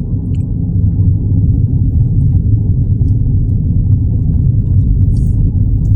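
Steady low rumble of a small car driving at highway speed, heard from inside the cabin: engine, tyre and wind noise.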